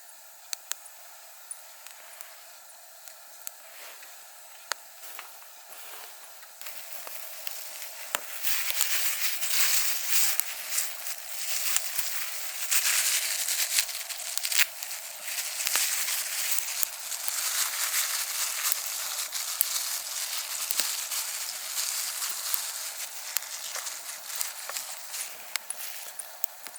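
Wood fire crackling and hissing, with sharp pops throughout. It grows louder about eight seconds in.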